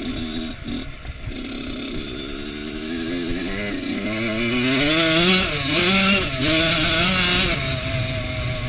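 Kawasaki KX85 two-stroke motocross bike engine, choppy and lower at first, then revving up hard from about three seconds in, its pitch climbing, dipping briefly twice and climbing again before easing off near the end.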